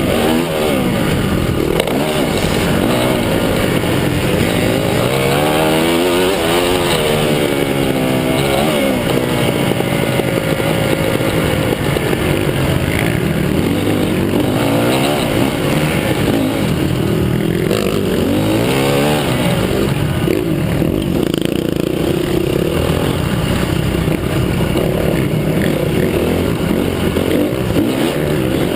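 Motocross bikes' engines running on a track, revving up and dropping back again and again as riders accelerate, shift and brake, several engines overlapping.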